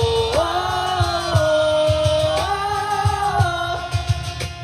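Live pop-rock band music: a singer holds long, steady notes that step up and down in pitch over a regular drumbeat.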